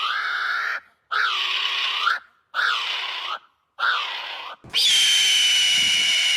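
Bird calls in quick succession: one call ends within the first second, then come three similar calls of just under a second each, separated by brief silences. Then a different, longer call holding a steady pitch starts abruptly near the end.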